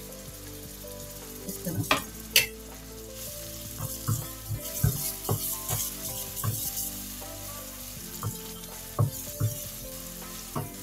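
Chicken filling with freshly added chopped capsicum sizzling in a non-stick frying pan as a wooden slotted spatula stirs it, the spatula knocking against the pan now and then.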